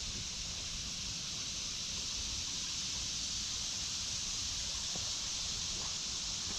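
Steady high-pitched chorus of cicadas, with a low rumble underneath.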